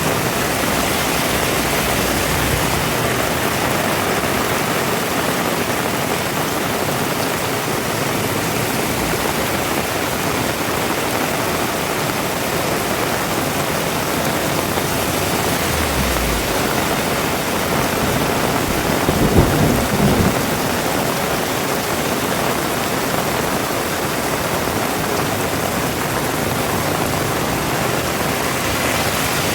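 Heavy rain falling steadily, a dense even hiss, with a brief low thud about two-thirds of the way through.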